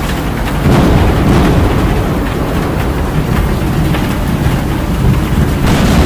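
Loud thunderstorm noise: heavy rain with a deep rumble that swells about a second in.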